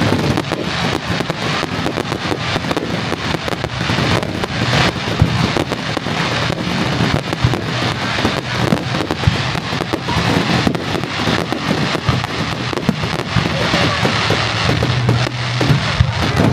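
Fireworks display going off in a dense, unbroken run of bursts and crackling reports.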